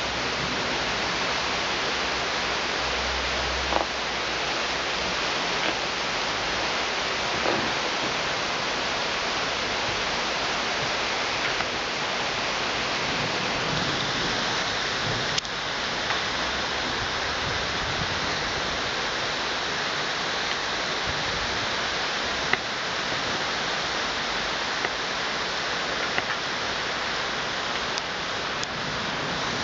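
Heavy thunderstorm rain pouring steadily, with a few sharp ticks of drops striking close by. A low rumble of thunder dies away in the first few seconds.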